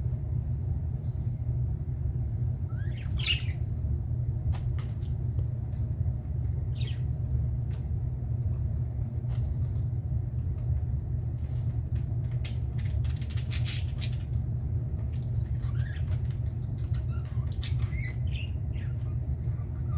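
Budgerigars giving short, scattered chirps and squawks, a few at a time with gaps between, over a steady low rumble, with a few sharp clicks.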